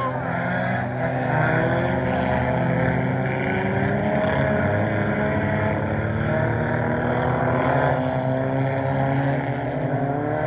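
Several scramble race cars' engines running together around the track, a steady mix of engine notes that rise and fall gently as the cars lap.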